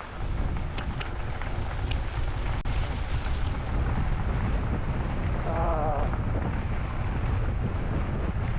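Wind buffeting the microphone of a camera on a moving e-bike: a steady, heavy rumble that sets in suddenly at the start.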